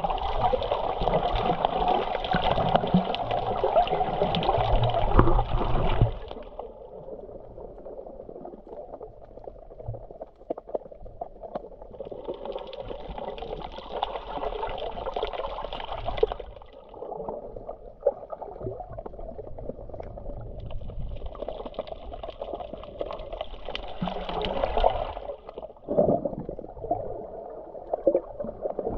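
Sea water washing and sloshing, loud for the first six seconds, then quieter, swelling up twice more.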